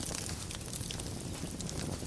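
Wood fire burning in a fireplace: a steady low rumble of flame with scattered small crackles and pops from the burning wood.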